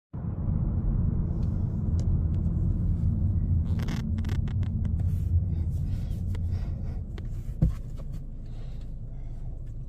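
Car cabin road rumble from a moving car, low and steady, with scattered light clicks and one sharp thump about three quarters of the way through; the rumble eases in the last couple of seconds.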